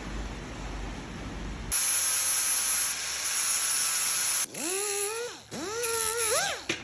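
A loud hiss starts about two seconds in and runs for about three seconds, followed by several short whines that rise and fall in pitch.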